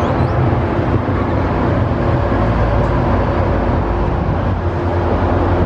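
Diesel passenger train running at close range: a loud, steady low rumble.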